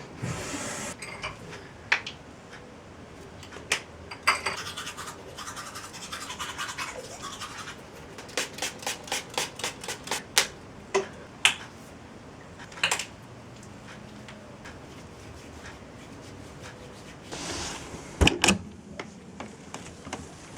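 Close-up handling sounds: scratching and rubbing, broken by sharp clicks and light knocks, with a quick run of clicks partway through and two louder knocks near the end.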